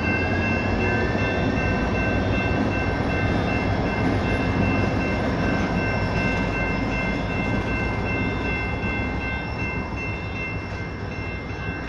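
BNSF diesel locomotives moving slowly over a grade crossing, their engines running, while the crossing's electronic bells ring continuously as a set of steady high tones above the engine noise.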